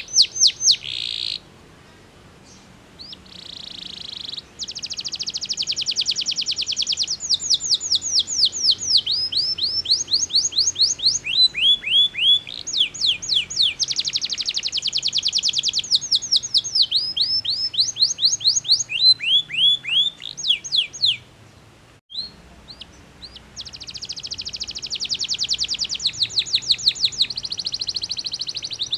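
Domestic canary singing a long song of fast trills and repeated downward-sweeping whistled notes. The song pauses briefly about two seconds in and again a little past the middle.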